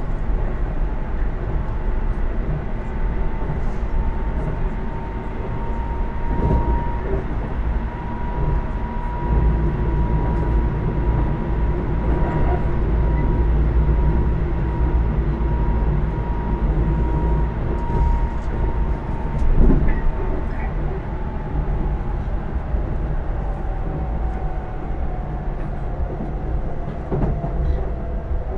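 Running noise heard inside a Keisei AE100 electric express car: a steady low rumble of wheels on rail with a thin whine from the drive that holds steady, then falls in pitch over the last several seconds as the train slows. A couple of brief knocks from the track come through along the way.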